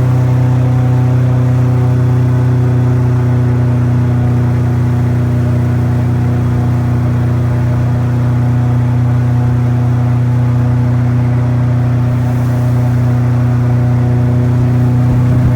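Airboat engine and propeller running at a steady speed: a loud, even drone that does not change pitch.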